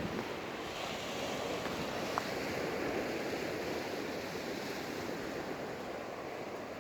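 Sea surf washing onto a sandy beach: a steady rush of waves that swells and eases, with a single short tick about two seconds in.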